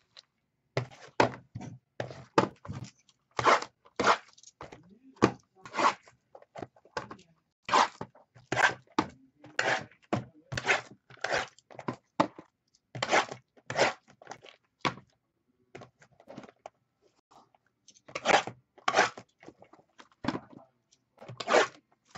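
Trading-card packs and boxes being handled and sorted on a table: an irregular run of sharp clicks, taps and crunches, several a second, with short pauses.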